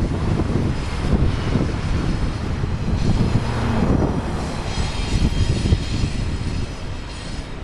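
BNSF freight trains passing, with a loud, steady low rumble. A high whine of several steady tones joins about halfway through and fades near the end.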